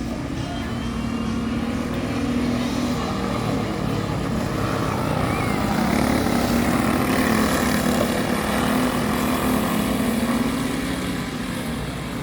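Several small racing-kart engines buzzing together as the pack laps the track, getting louder as the karts pass close and fading again near the end.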